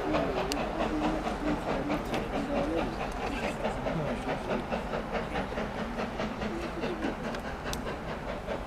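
Passenger train rolling past, its coach wheels clicking rapidly and evenly over the rail joints over a steady rumble.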